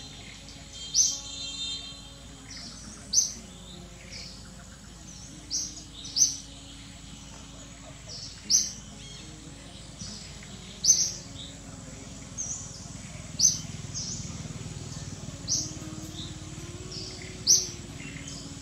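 A bird calling in short, sharp, high chirps, repeated roughly every two seconds, some in quick pairs.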